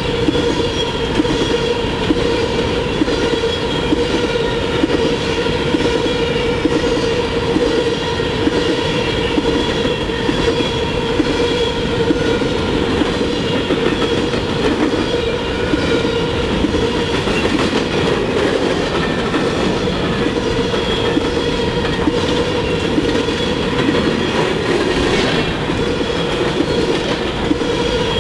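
Empty steel coal cars of a freight train rolling past at speed: a steady rumble and clatter of wheels over the rail, with steady squealing tones running over it.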